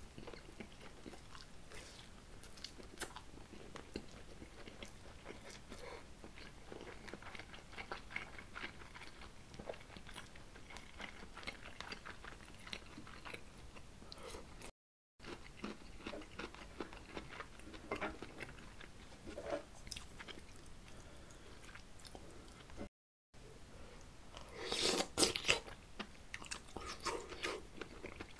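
Close-miked chewing and biting of food: Spam and a garlic clove, with many small wet mouth clicks and smacks, and a louder burst of mouth noise near the end.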